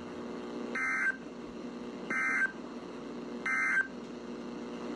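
Emergency Alert System end-of-message data bursts: three short, buzzy digital chirps about 1.3 s apart, the coded signal that closes a broadcast alert, here a tornado warning.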